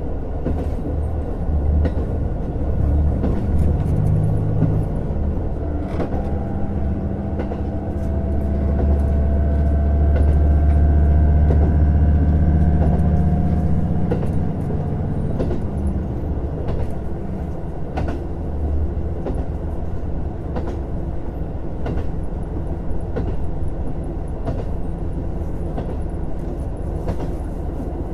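JR Hokkaido KiHa 150 diesel railcar running, heard from inside the car: the diesel engine's low drone swells for several seconds in the middle, with a faint rising whine over it, then drops back about halfway through. Wheels click over rail joints throughout.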